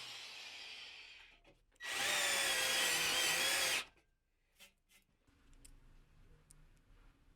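Electric drill running for about two seconds, its motor whine wavering slightly. Before it, a tool's sound fades away, and two short clicks follow.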